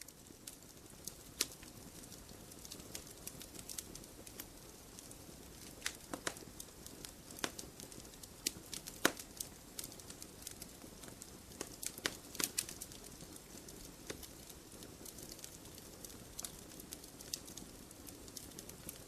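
Wood fire crackling in a fireplace: irregular sharp pops and snaps over a steady low rustle of burning.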